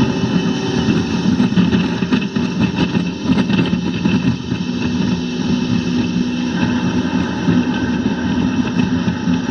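Motorboat engine running steadily, its drone under a constant noisy hiss.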